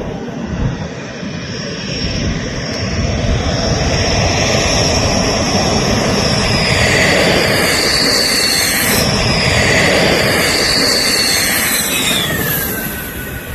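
Jet aircraft flying past: its roar builds, peaks, then fades. A high whine drops sharply in pitch near the end as it passes.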